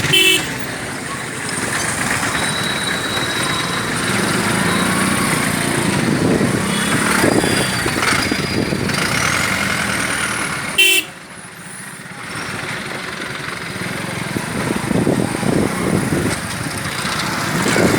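Congested road traffic: motorcycle and truck engines running, with short horn honks at the start and again about eleven seconds in.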